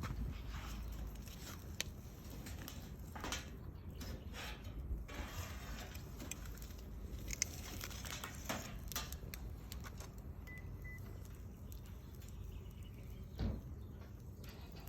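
Wood bonfire crackling, with irregular sharp pops over a steady low rumble.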